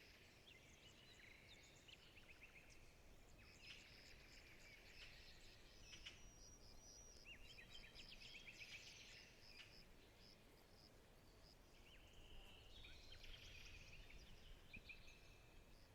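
Faint forest ambience of birdsong: several birds chirping and trilling in short phrases, some rapidly repeated, over a soft low background hum.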